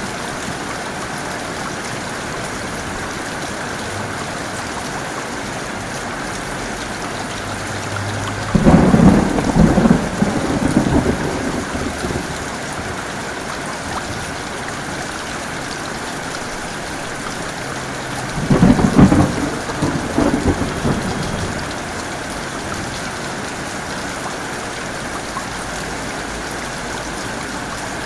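Heavy rain falling steadily, with two rumbling peals of thunder. The first comes about eight and a half seconds in and lasts about three seconds; the second comes about ten seconds later and lasts about two seconds.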